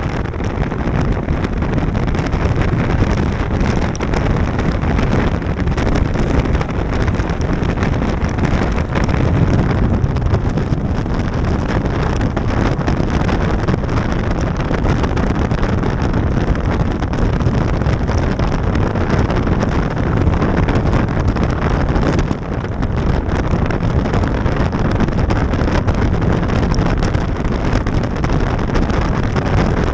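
Wind rushing over the microphone of a motorcycle riding at road speed, with the engine and road noise running steadily underneath.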